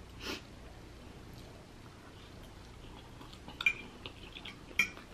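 Quiet mouth sounds of a person chewing a mouthful of pancit noodles. A metal fork clinks twice against the plate near the end.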